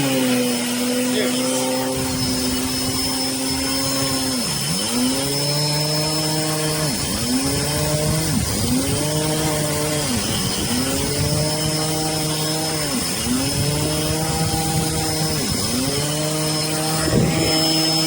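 Vacuum cleaner motor supplying suction to a Lego vacuum engine, running with a steady high whine. From about four seconds in, its pitch dips sharply and recovers every second or two as the Lego engine cycles and draws on the suction.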